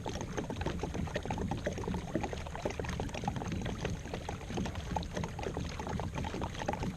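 Water lapping and sloshing against a kayak hull in small irregular splashes, over a steady low rumble.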